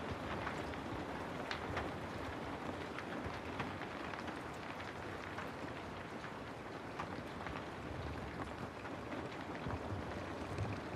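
Steady recorded rain, falling on a surface, with many small drop ticks scattered through it.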